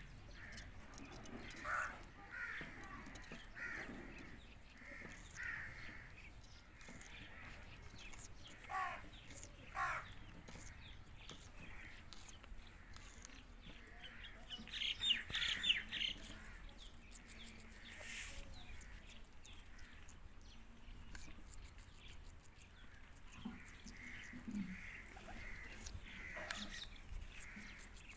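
Indian ringneck parrot giving short, scattered calls, with a louder run of shrill, rapid calls about halfway through.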